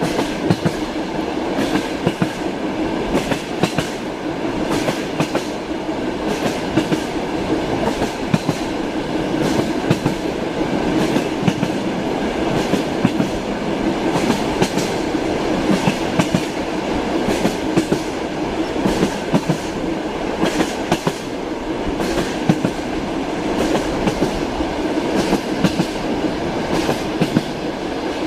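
Passenger train heard from inside a compartment: a steady rumble of the moving carriage with the clickety-clack of the wheels passing over rail joints, sharp knocks coming in irregular runs throughout.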